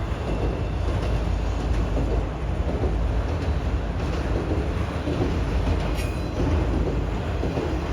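Freight train of autorack cars rolling past, a steady rumble of steel wheels on rail. A single sharp click comes about six seconds in.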